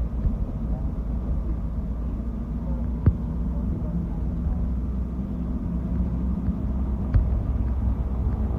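Steady low rumble of a moving bus heard from inside the cabin, with two sharp knocks, about three seconds in and again about seven seconds in.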